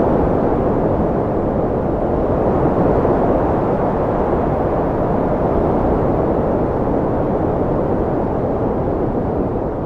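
Cold wind blowing: a steady, low rushing noise.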